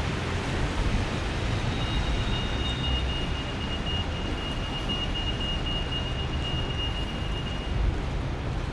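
City street ambience in the rain: a steady wash of traffic and wet-street noise. A thin high tone sounds from about two seconds in and stops about two seconds before the end.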